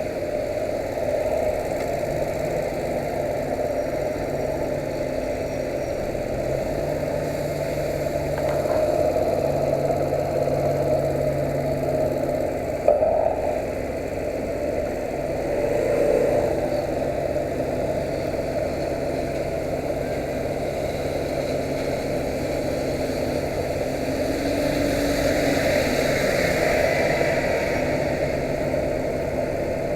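Yamaha YBR125's single-cylinder four-stroke engine running steadily, its pitch shifting a little. One sharp knock comes about halfway through.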